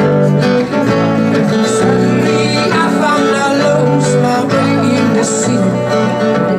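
Live acoustic guitar music, with plucked and strummed strings ringing in sustained chords that change about once a second.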